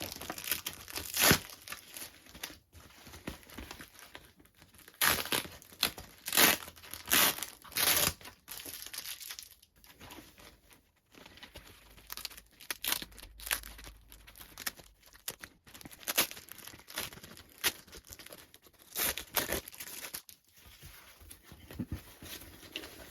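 Packaging being unwrapped by hand: crinkling and tearing in irregular bursts, loudest for a few seconds about a quarter of the way in.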